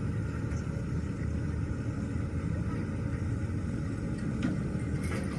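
A steady, low engine rumble, with a few faint clicks near the end.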